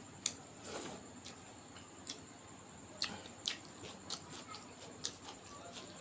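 Close-miked eating: irregular wet mouth clicks, lip smacks and chewing, about one or two a second.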